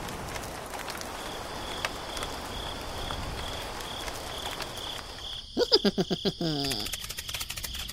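Soft steady rain hiss with crickets chirping in an even pulse, about two to three chirps a second. A little past halfway a frog gives a quick run of loud croaks, the loudest sound here, and then insects click rapidly.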